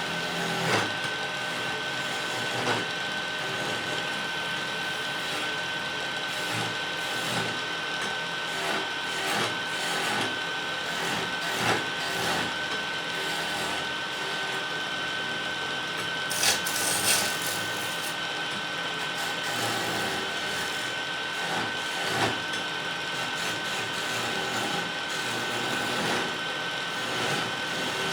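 Wood lathe running, with a thin steady whine and a tool scraping against the turning wood. There are a few short sharp knocks along the way, loudest about 17 seconds in.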